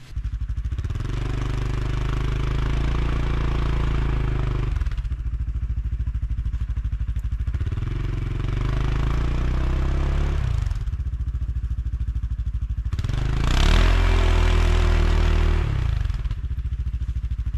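ATV engine revving in three long bursts with idling between, its wheels spinning as it tries to back out of deep snow; the machine is stuck, dragging its belly.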